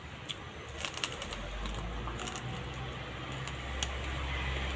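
Close-miked eating of chow mein noodles: scattered wet mouth clicks and smacks of chewing, several together about a second in and one near the end. A low steady hum comes in about a second in.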